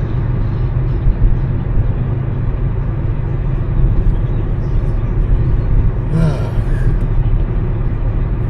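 Steady low road and engine rumble of a car being driven, heard from inside the cabin, with a brief pitched sound about six seconds in.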